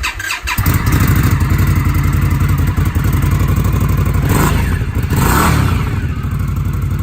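2019 Indian Scout Bobber's V-twin on its stock factory exhaust, cranked and catching about half a second in, then running with two brief throttle blips around four and five seconds in.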